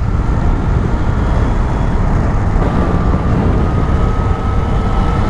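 Motorcycle riding steadily at road speed, heard close up from the rider's microphone: a dense wind and road rumble with a faint steady whine from the drivetrain.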